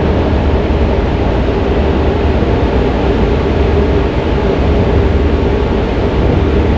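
Steady low rumble of a vehicle's running engine and motion noise, with a faint steady hum over it.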